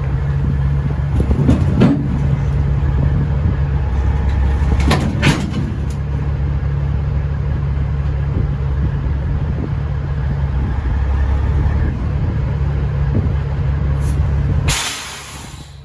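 Freightliner FLD120's Cat 3406E diesel engine running steadily at low revs, with a few knocks about two and five seconds in. Near the end the engine sound drops away and there is a short, loud hiss of air, like an air brake.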